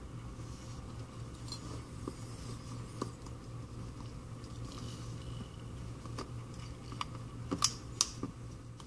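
Scattered small clicks and taps as tiny metal parts and tools are handled on an opened iPhone 5c, the two loudest near the end, over a steady low hum.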